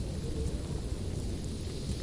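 Wood fire burning in a fireplace: a steady low rumble of flames with a few faint crackles.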